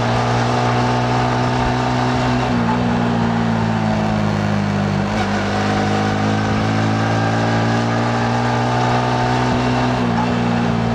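Yamaha MT-15's 155 cc single-cylinder four-stroke engine running under way, heard from the rider's seat. Its note sinks over the first few seconds, then climbs steadily again from about the middle, with wind and road noise throughout.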